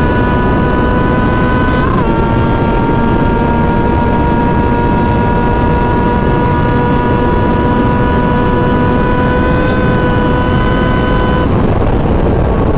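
Sport motorcycle engine holding steady revs while riding, with wind rushing over the microphone; the engine pitch jumps briefly about two seconds in and eases down near the end.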